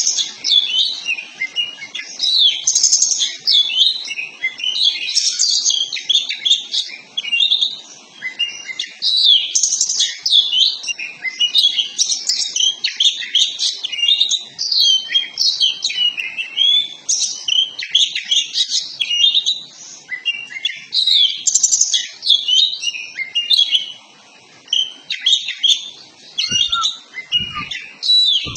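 Oriental magpie-robin (kacer poci) singing a rapid, unbroken song of varied, fast-changing whistles and chirps. This is the vigorous, full-volume song (gacor ngobra) used as a lure to get a captive bird to fan its tail and sing.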